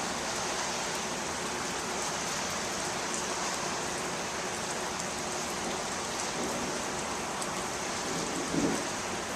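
Steady rain falling in a summer monsoon storm, an even hiss with scattered drop ticks. A short low thud stands out near the end.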